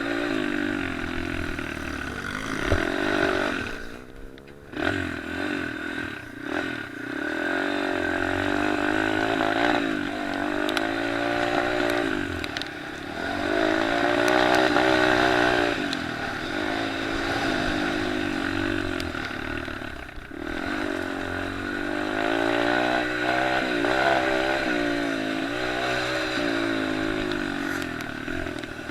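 Small dirt bike engines from racing pit bikes and 50cc/65cc motocross bikes, revving up and down with the throttle. The pitch climbs and falls repeatedly, with short drops off throttle about four seconds in and again around twenty seconds.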